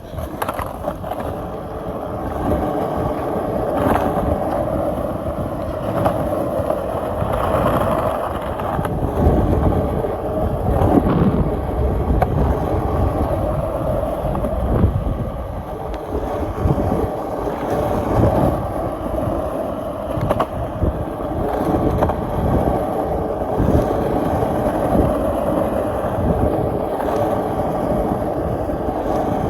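Skateboard wheels rolling over pavement, a steady rumble broken by irregular clacks as the board crosses joints and bumps.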